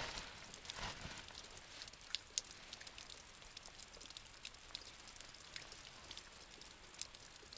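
Light rain falling, a faint steady hiss with scattered dripping ticks, and a soft rustle in the first second.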